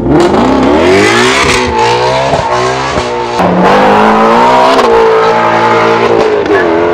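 Ford Mustang Shelby GT350R's naturally aspirated 5.2-litre flat-plane-crank V8 accelerating hard, its pitch climbing through the revs, dropping at each upshift and climbing again, with a few sharp cracks from the exhaust.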